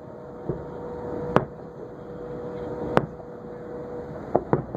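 Aerial firework shells bursting in the sky, heard as sharp separate bangs: a faint one, two strong ones a second and a half apart, then a quick pair near the end, over a steady hum.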